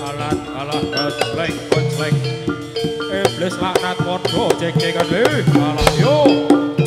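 Live music for a Javanese gedruk folk dance: drums beaten in a fast, dense rhythm under held melody notes, with sliding, bending pitches over the top.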